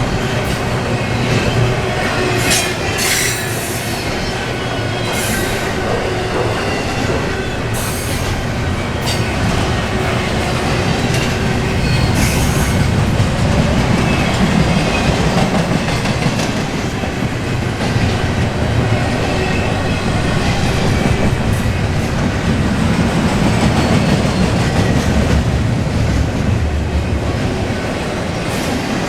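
Intermodal container freight train rolling past, a steady loud rumble and clatter of steel wheels on the rails. Short high-pitched wheel squeals come now and then, mostly in the first dozen seconds.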